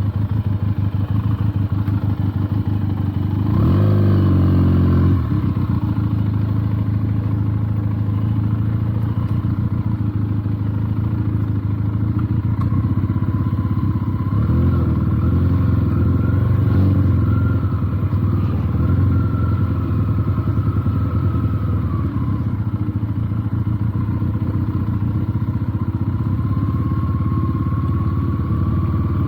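Benelli TNT 300 motorcycle's parallel-twin engine running while the bike is ridden. The revs rise briefly about four seconds in and again around fifteen seconds in.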